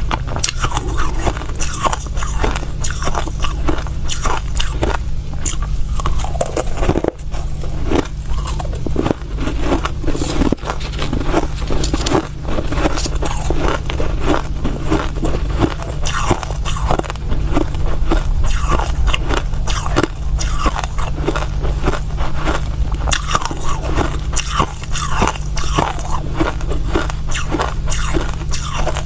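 Close-miked crunching and chewing of soft crushed ice, a dense run of rapid crackling crunches.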